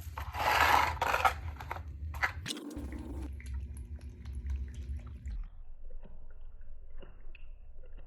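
Wet cat food being handled and served: a noisy squish or rustle lasting about a second near the start, then a few sharp clicks and taps, and a low hum that cuts off about five seconds in.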